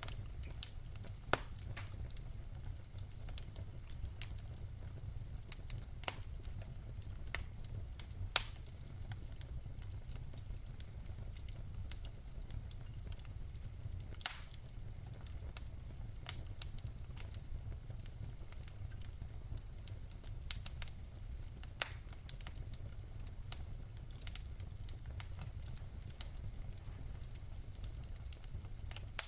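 Wood fire burning in a fireplace: a steady low rumble of the flames with irregular sharp crackles and pops from the burning logs, a few every couple of seconds.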